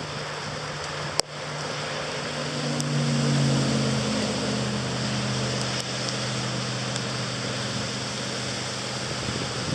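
Steady rain hiss with street traffic: a vehicle passes, its low engine hum swelling to its loudest about three and a half seconds in, then fading. A single sharp click a little over a second in.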